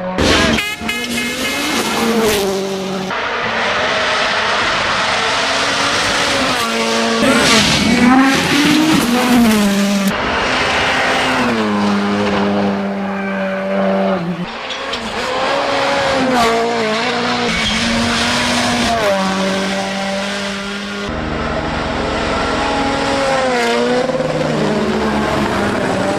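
Tuner cars' engines revving and accelerating, several cars in turn, the pitch climbing and dropping with each rev.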